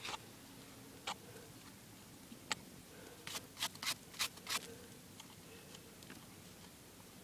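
Scattered sharp clicks and knocks, about eight in all: single ones about a second and two and a half seconds in, then a quick run of five between about three and four and a half seconds in.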